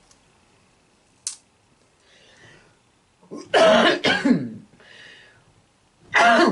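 Coughing and throat clearing: a loud cough about halfway through and another near the end, with softer breaths between. The pineapple juice she was drinking caught her throat.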